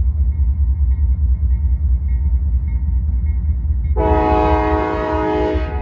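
Locomotive air horn sounding one held blast of a little under two seconds, starting about four seconds in, over a steady low rumble of a diesel train.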